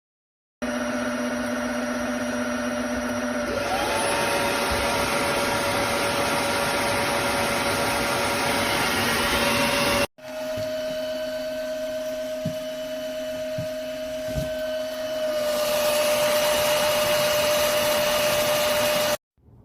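Simplus S-Clean V1 cordless wet-dry floor washer running, a steady motor-and-suction noise with whining tones; one whine rises in pitch a few seconds in. It breaks off for an instant about halfway, runs again with a few light knocks, gets louder near the end and then stops abruptly.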